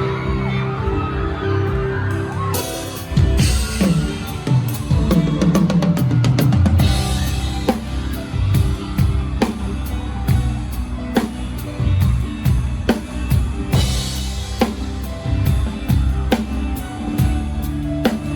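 Live drum kit played with a band. After a couple of seconds of held band notes, the drums come in with kick, snare and fills, and cymbal crashes about three seconds in, again near seven seconds and near fourteen seconds.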